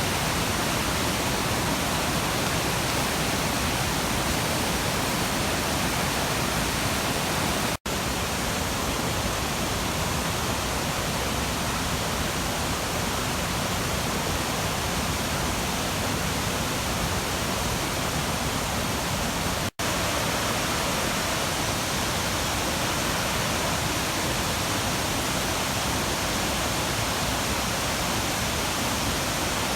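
Steady, even rush of a waterfall and river rapids, with no change in pitch or rhythm. It is broken twice by a split-second dropout to silence.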